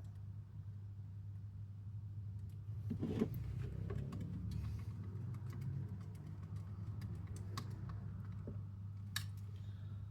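Light clicks and a soft knock of small metal and plastic parts being handled as a pistol grip is fitted and screwed onto an airsoft rifle, over a steady low hum.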